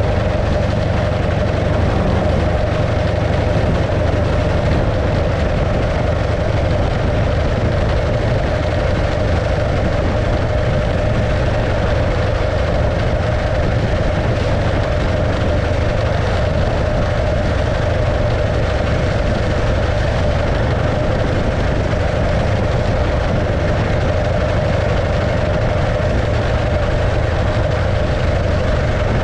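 Engine of a 1915 Arcade motorcycle, a 650cc JAP V-twin, running steadily with no change in speed.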